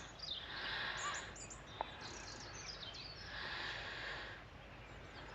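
Birds chirping and twittering outdoors in two stretches of about one and a half seconds each, with a faint click between them.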